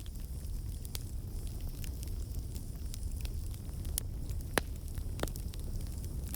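Campfire burning with a steady low rumble and scattered crackles and snaps of burning wood, the sharpest pop about four and a half seconds in.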